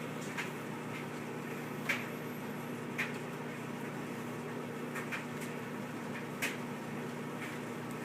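Microwave oven running with a steady hum, broken by a few short, irregular clicks.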